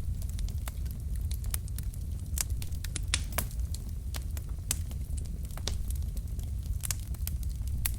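Wood fire of burning logs crackling, with irregular sharp pops and snaps over a steady low rumble of the flames.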